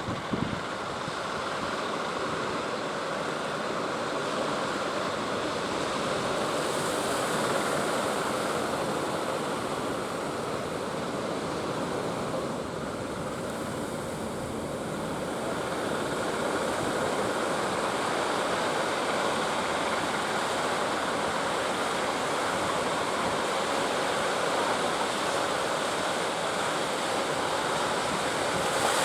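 Ocean surf breaking in a continuous rush of waves, swelling and easing slowly, in strong wind.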